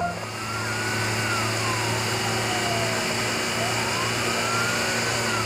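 Vehicle sound effect: a steady engine rumble and hiss with a siren wailing slowly up and down, twice.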